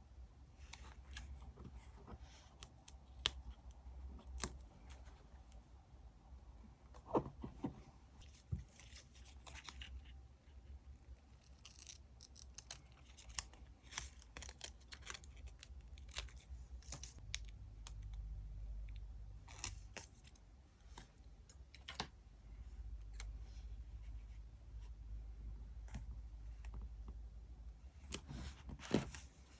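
Scissors snipping and paper being handled and torn in diary decorating, with scattered light clicks and taps.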